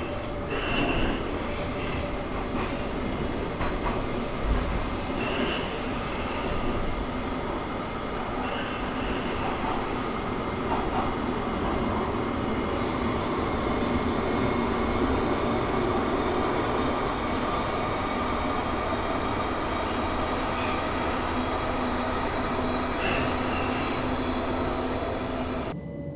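Steady heavy-machinery rumble and hiss of a factory-floor ambience, with a few metallic clanks and brief high squeals. The higher hiss cuts out suddenly right at the end.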